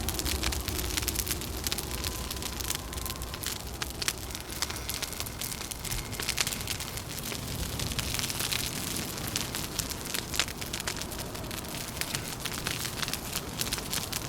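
Wood fire crackling and snapping with dense, irregular pops, over a low rumble of wind.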